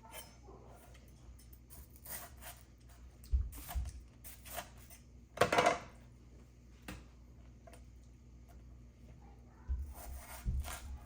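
Scattered small knocks, clinks and rustles of things being handled, the loudest a little past the middle, over a faint steady hum.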